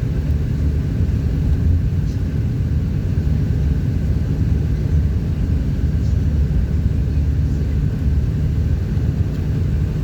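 Steady low rumble of a vehicle driving along a road: engine and tyre noise heard from inside the moving vehicle.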